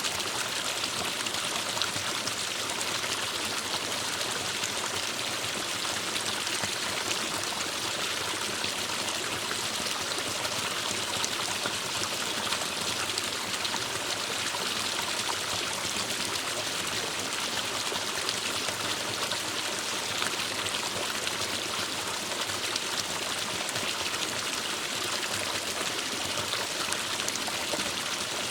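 Forest stream flowing steadily over rocks, a constant even rush of running water.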